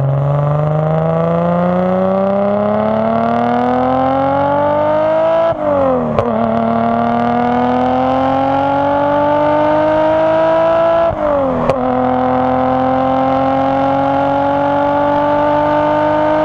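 Nissan Skyline R33 GTS-t's turbocharged RB25DET straight-six accelerating hard through the gears. The engine note climbs steadily, drops at an upshift about five and a half seconds in and again about eleven seconds in, and climbs more slowly in each higher gear.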